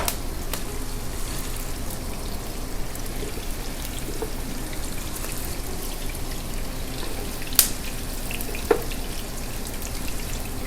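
Chicken koftas and sliced onions frying in hot oil: a steady sizzle with small crackles, and a few sharp knocks, the loudest about seven and a half seconds in.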